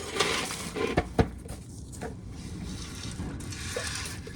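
Dry corn kernels rattling and pouring as ears of corn are shelled, with two sharp knocks about a second in.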